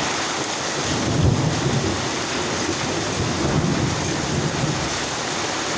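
Heavy rain mixed with hail pouring down in a windy storm, a dense steady hiss, with deep rumbles swelling about a second in and again a couple of seconds later.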